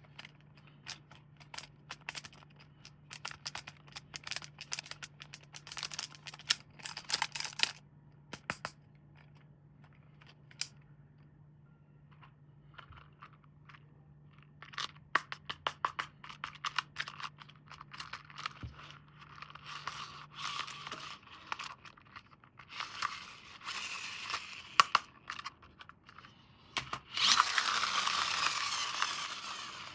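Hands handling and unwrapping toy packaging: scattered clicks and plastic crinkling, with a long loud rip of plastic or tape near the end.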